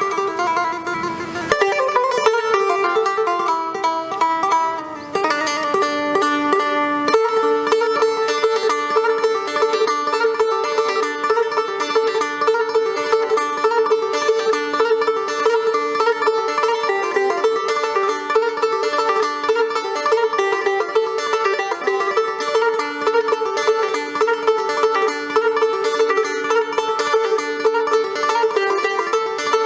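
Instrumental music on a plucked string instrument, picked quickly over a held low drone note.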